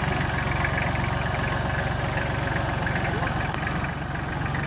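Tractor engine running steadily at idle, with a rapid, even chug of firing pulses.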